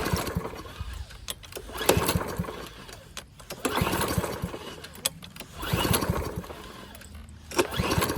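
Remington self-propelled lawn mower's 140cc Powermore overhead-valve engine being pull-started several times, a burst about every two seconds as the recoil cord is yanked, turning over without catching. It is unprimed and will not fire.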